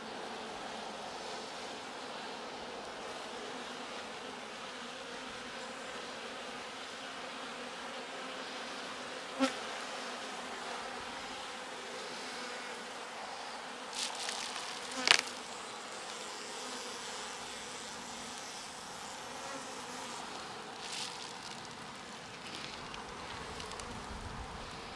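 Honey bee colony buzzing steadily in an opened hive. Two sharp knocks cut through, about nine seconds in and again, louder, about fifteen seconds in.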